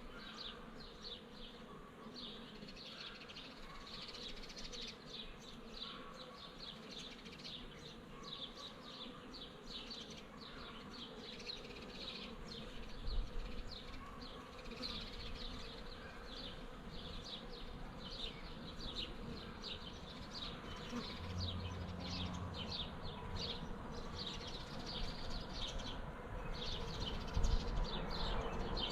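Swarm of honeybees buzzing steadily, with a brief louder, lower hum about three-quarters of the way through and a thump near the end.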